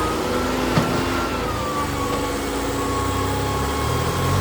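Tractor engines running, with the low engine note growing stronger near the end and a single sharp click about a second in.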